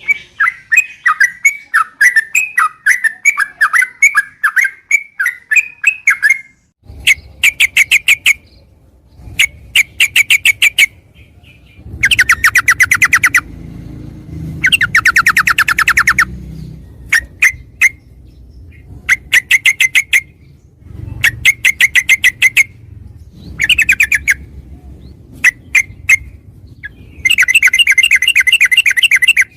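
Yellow-vented bulbul singing: a run of quick warbled notes first, then repeated one-to-two-second bouts of very fast rattling trills (the rolling 'ropel' song).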